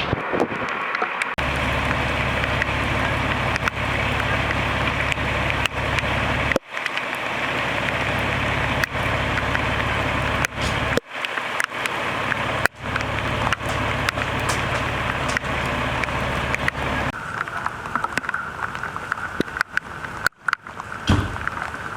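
A fire engine idling steadily under a constant hiss of rain, the sound breaking off abruptly several times; the engine drone stops about seventeen seconds in, leaving the rain.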